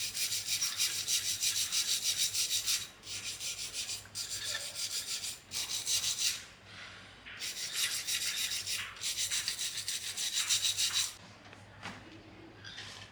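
Hand scrubbing or abrading strokes on a surface, a dry, hissy rasping. It comes in several long runs with short breaks and stops about eleven seconds in, followed by a few faint clicks.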